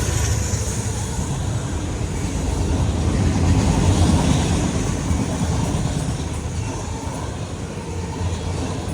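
CSX autorack freight train rolling past, a steady rumble of steel wheels on the rails.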